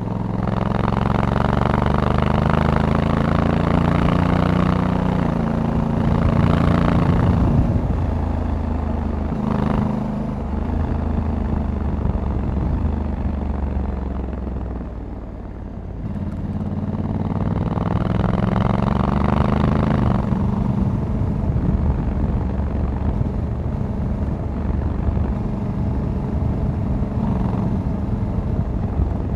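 Honda Africa Twin 1100 DCT's parallel-twin engine pulling under way. Its pitch climbs and then drops at gear changes, it eases off briefly midway, then climbs again and settles to a steadier cruise.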